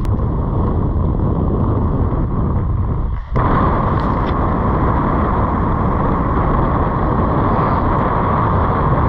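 Strong wind buffeting the microphone: a loud, steady, low rumble with a brief drop about three seconds in.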